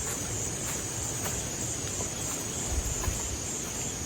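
Insects chirring in a steady, high-pitched pulsing trill, with wind rumbling against the microphone underneath.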